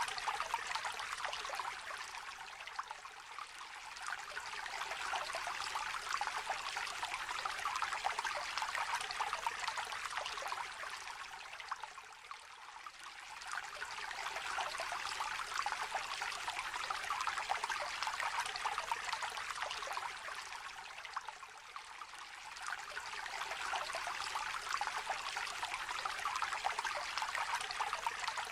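Small river trickling and babbling over stones: an even splashing rush that swells and eases about every nine seconds.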